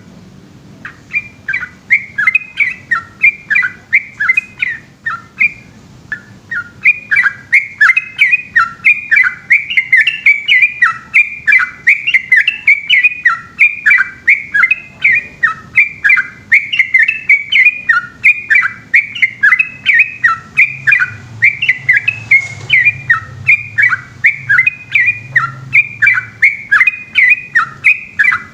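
Yellow-vented bulbul (trucukan) singing a long, rapid run of short chirping notes, several a second. There are brief breaks about half a second in and again around six seconds in.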